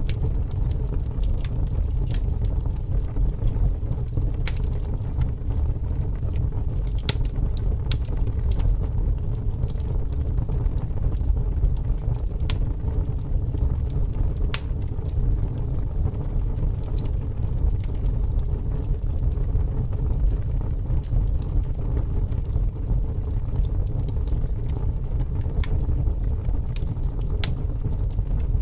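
Fire burning with a steady low rumble and scattered sharp crackles and pops at irregular intervals.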